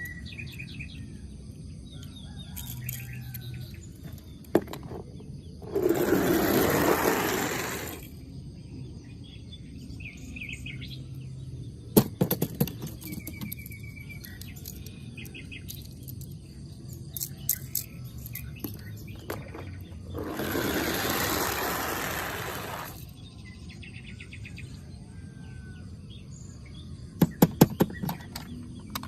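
Small birds chirping in short calls throughout. Twice, a louder rushing noise swells for about two seconds, and there are a few sharp clicks about twelve seconds in and again near the end.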